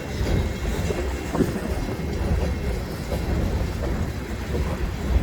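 Freight train cars rolling past close by: a steady low rumble broken by occasional wheel knocks and clacks over the rail joints.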